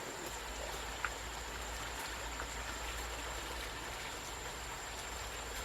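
Steady rush of flowing water, with a thin steady high tone over it and a single light click about a second in.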